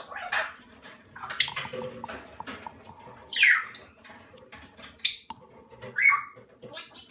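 Moluccan cockatoo chicks calling in a series of short, harsh squawks, several falling in pitch.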